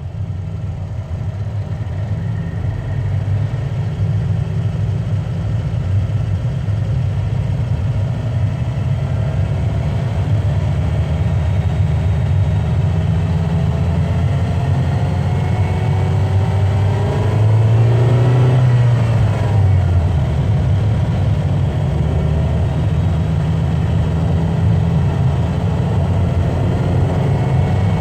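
A car driving at motorway speed: steady low engine and road noise, with a brief swell about eighteen seconds in.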